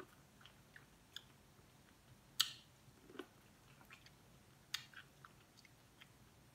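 Faint close-up chewing of sauced corn on the cob: scattered wet smacks and clicks of the mouth, the loudest about two and a half seconds in and another near five seconds.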